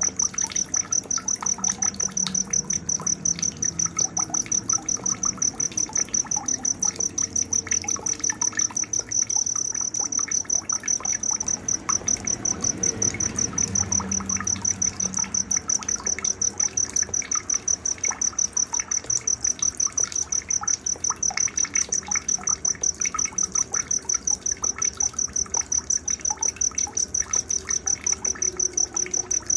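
Cricket chirping: a high, even pulsed trill repeating several times a second without a break, with faint scattered chirps lower in pitch beneath it.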